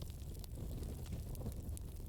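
Campfire burning: a steady low rumble of the flames with a few faint, sparse crackles.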